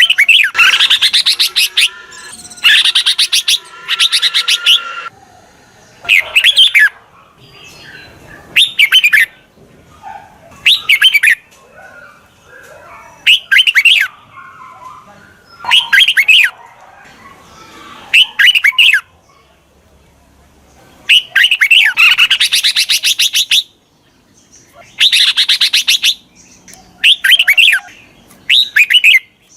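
Red-whiskered bulbul singing from a decoy bird: short, loud whistled phrases repeated every two seconds or so, with longer, denser runs of song near the start and again about two-thirds of the way through.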